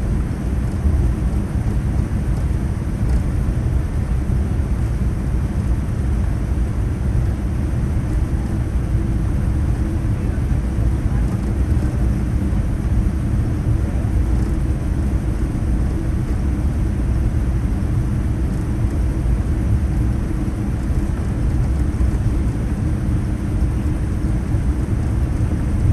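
Steady low rumble inside the cabin of a Boeing 787-9 on the ground after landing, most likely taxiing with its engines at idle. The loudness stays even throughout, with no distinct events.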